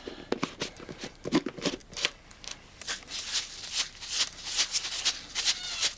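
Tannerite target powder rattling and swishing in its one-pound container as it is shaken to mix, a rapid gritty rattle that comes in quicker, more regular shakes in the second half.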